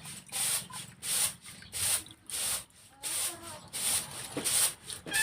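Rhythmic rubbing or scraping strokes, about three every two seconds, each a short hissy scrape, as in food preparation by hand.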